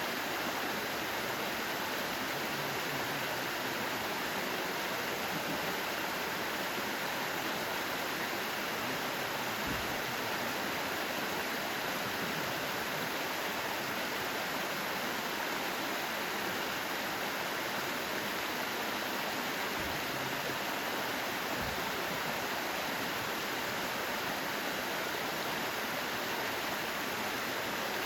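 Mountain valley stream running, a steady, even rush of water.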